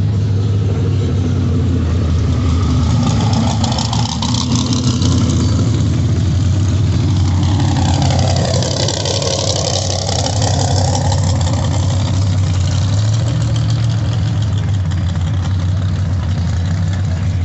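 Off-road drag-racing Jeep engines idling with a loud, steady low rumble. Around the middle, a higher engine note dips in pitch and climbs back up.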